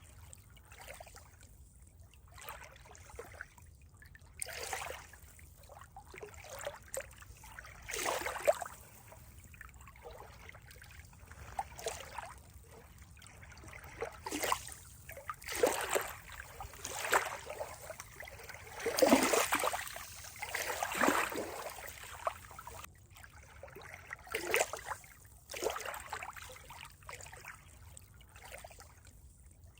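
Water trickling and gurgling in uneven splashy surges every second or few, the strongest cluster about two-thirds of the way through.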